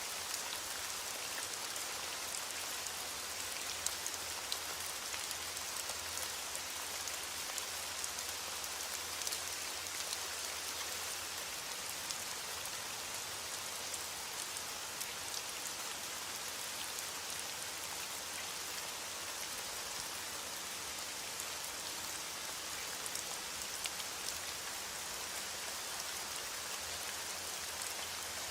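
Steady rain falling, a continuous hiss with fine scattered drop ticks on a surface.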